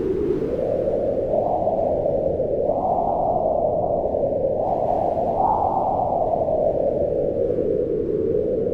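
Wind blowing steadily in a low, hollow rush whose pitch swells up and sinks back twice, rising to a peak about three seconds in and again about five and a half seconds in, then settling lower near the end.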